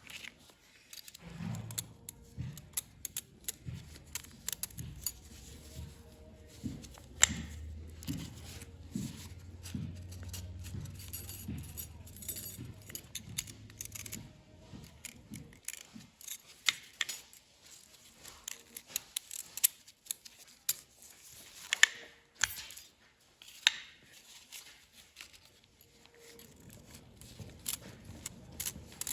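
Small metal parts clicking and jingling as they are handled: new piston rings being sorted and laid out for fitting to the pistons, with many short, irregular ticks and clinks.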